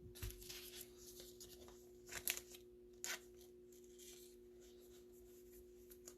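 Faint handling of trading cards: short scratchy slides and flicks, the loudest just after two seconds and another at about three seconds, over a steady low hum.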